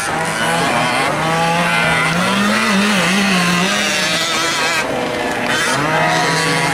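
1/5-scale RC off-road trucks' small two-stroke gas engines running at race speed, revving up and down as the trucks lap the track.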